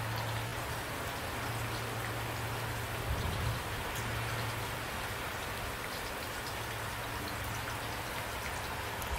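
Steady rain falling, an even hiss of many drops, with a steady low hum underneath and a brief low swell about three seconds in.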